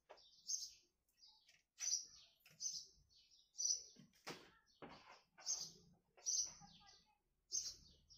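A small bird chirping repeatedly, short high chirps about once a second, with a few brief scrapes of a hand trowel in potting soil.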